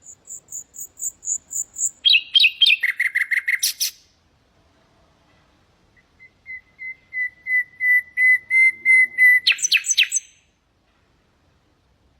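Common nightingale singing. A run of repeated high notes grows steadily louder and breaks into a quick churring flourish. After a short pause, a long series of lower whistled notes swells in volume and ends in a fast rattle about ten seconds in.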